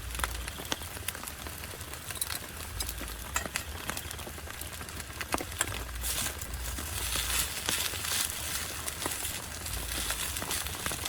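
Heavy rain pattering on a tent, a dense hiss with many sharp individual drop hits, and a low rumble underneath.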